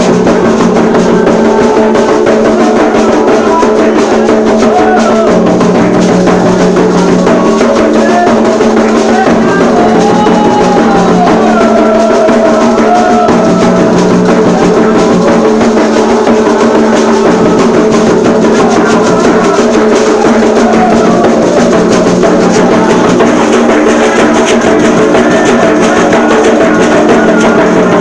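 Loud, continuous ritual drumming of a Candomblé ceremony, the atabaque hand drums playing a steady beat for Xangô.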